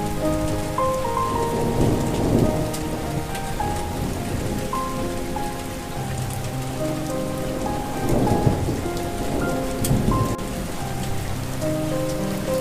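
Steady rain with thunder swelling up three times, about two, eight and ten seconds in, under a slow, gentle melody of held notes.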